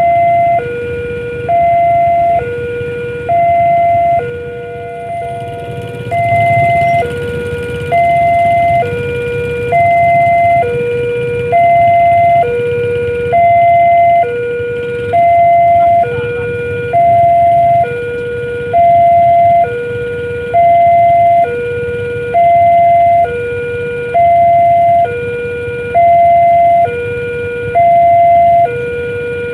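Railway level-crossing warning alarm sounding a steady two-tone hi-lo signal, a higher and a lower tone swapping about once a second, warning that a train is coming. A low rumble runs underneath.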